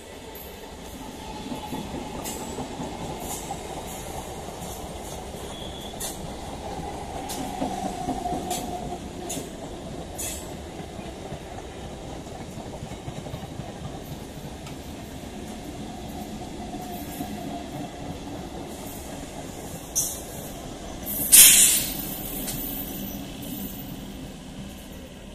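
Electric multiple unit local train running past on the rails: a steady rumble of wheels with scattered clicks, and a whine that swells and fades a few times. Near the end comes one short, very loud burst of noise.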